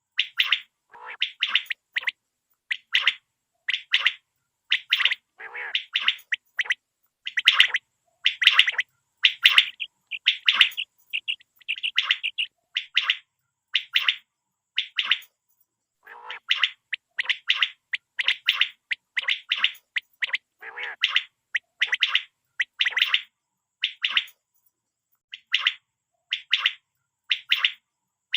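Common quail calling over and over: short, sharp high notes in quick runs, about one to two calls a second, with brief silent gaps between runs.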